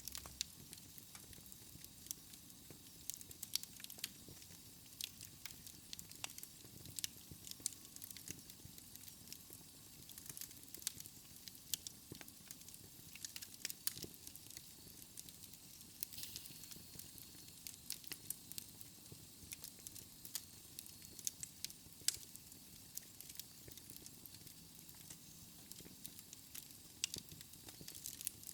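Wood logs burning in a fireplace, crackling with frequent sharp, irregular pops and snaps over a soft hiss.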